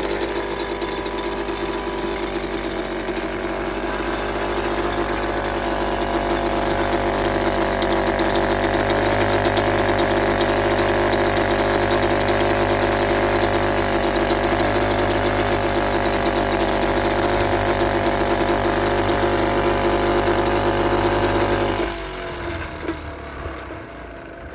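British Seagull Silver Century Plus two-stroke outboard motor running steadily, its first run after about ten years out of use and a carburettor clean. It gets a little louder a few seconds in, then is shut off about 22 seconds in and coasts down to a stop.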